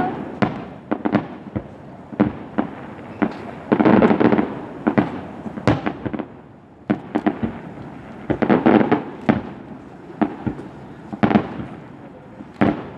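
Aerial fireworks bursting in quick succession, single booms every half second or so with dense clusters of rapid crackling bangs, the volley of a fireworks show building toward its finale.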